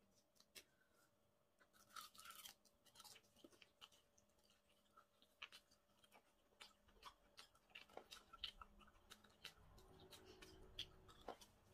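Faint chewing and mouth sounds of a person eating, a string of soft, irregular clicks with a slightly denser patch about two seconds in.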